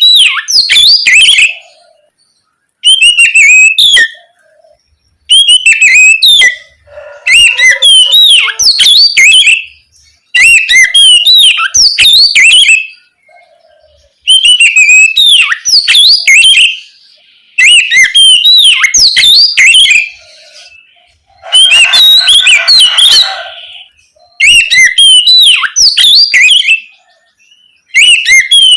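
Oriental magpie-robin (kacer) singing loud, fast whistled song in repeated phrases of one to three seconds, separated by short pauses.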